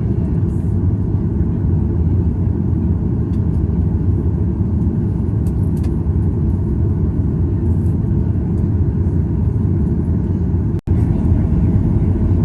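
Steady low rumble of an airliner's engines and airframe heard from inside the passenger cabin. The sound cuts out for a moment near the end.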